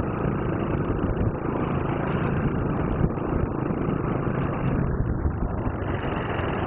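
Motorcycle engine running steadily with a dense, even rumble.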